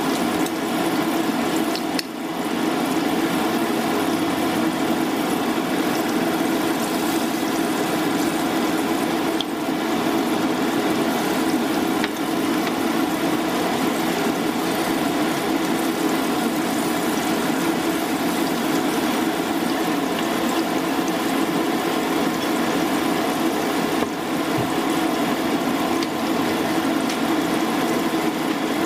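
Batter-coated jackfruit pieces deep-frying in hot oil in a frying pan, a steady sizzle, with a steady low hum underneath.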